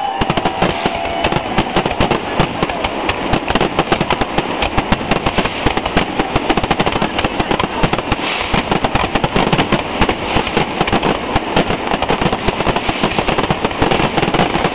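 Fireworks display: a dense, continuous barrage of bangs and crackling, many reports a second.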